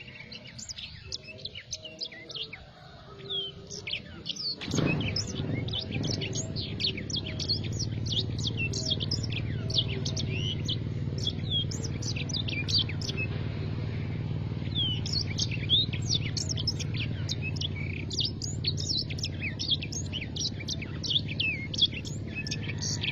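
Black-throated canary in full song: a fast, unbroken run of high, quick sweeping chirps and trills. About five seconds in there is a single knock, and after it a steady low hum runs under the song.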